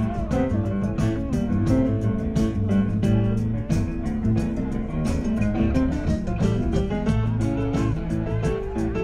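Live rock band playing an instrumental passage, electric guitar out front over bass and drums keeping a steady beat.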